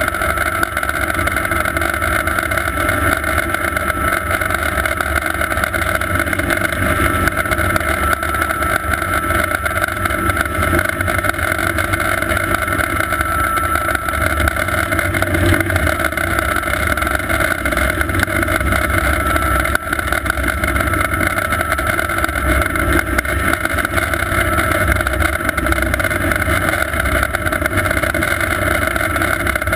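Sikorsky S-58T twin-turbine helicopter running steadily, a high turbine whine over low rotor noise.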